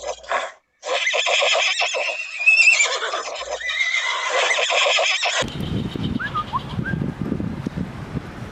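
Horse whinnying: a long, shaky, high neigh for about four and a half seconds, which cuts off abruptly. A lower, rough rumbling sound with a few faint chirps follows.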